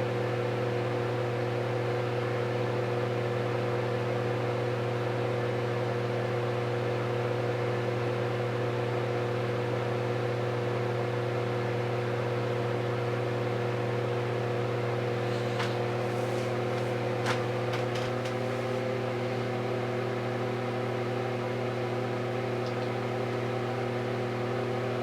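Steady mechanical hum with several constant tones, an unexplained noise in a room, running unchanged. A few faint clicks come about two-thirds of the way through.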